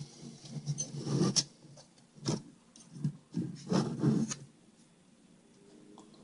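Several short bursts of rubbing and scraping as the TV's power board and tools are handled during desoldering, stopping about four and a half seconds in.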